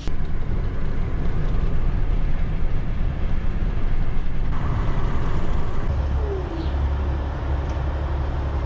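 Pickup truck engine running as it drives, a steady low rumble that grows heavier about six seconds in.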